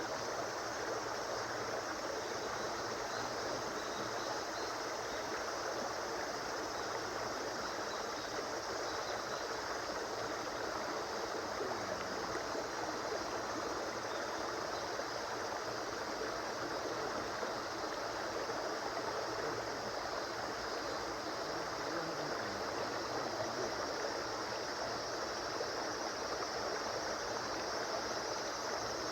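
A river stream flowing steadily, a continuous rushing and burbling of water.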